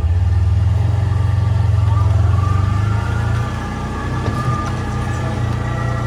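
A vehicle engine running steadily, easing off slightly about three and a half seconds in.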